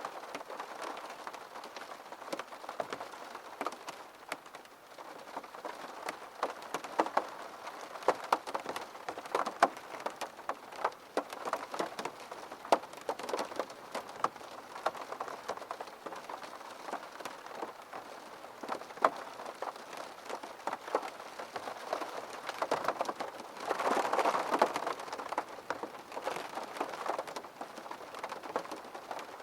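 Rain pattering against a window pane: a steady wash of rain with many separate drops striking sharply at irregular moments. A heavier, denser spell comes briefly near the end.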